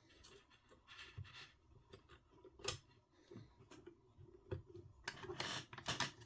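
Small hand tools and tiny RC car steering parts being handled: scattered faint clicks and taps, with a couple of sharper clicks and busier clicking near the end.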